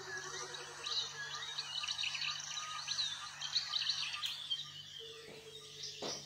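Faint birdsong played through a phone's small speaker from a video of a Burchell's coucal: many short high chirps, and a low, pulsing, bubbling call like water glugging out of a bottle. The chirps thin out after about four seconds, and the low call comes back briefly near the end.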